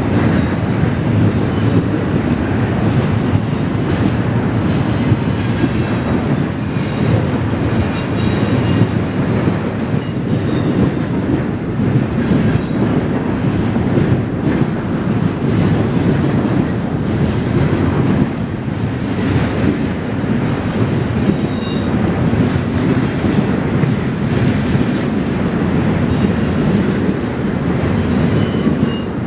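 A train rolling past close by: a steady, loud rumble of railcars on the track, with a brief high-pitched wheel squeal about seven to nine seconds in.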